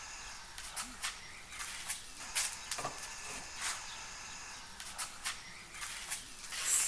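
Irregular light clicks and taps, a few a second at times, over a faint outdoor background with thin steady high tones.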